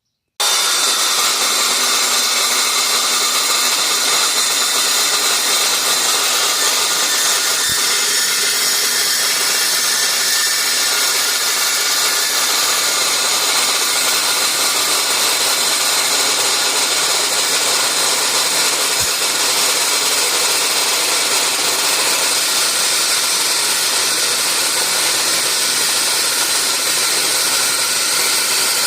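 A power tool running steadily and continuously with a loud, even, hissing noise, heaviest in the high range, as steel is worked on.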